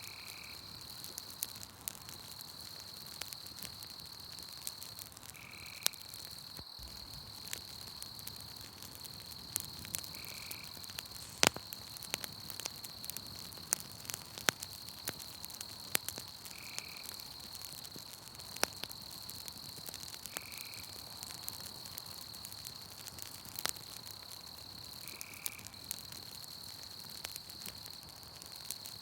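Campfire crackling with scattered sharp pops, one loudest about a third of the way through. Under it runs a steady high-pitched trill of night insects, and a short call repeats about every five seconds.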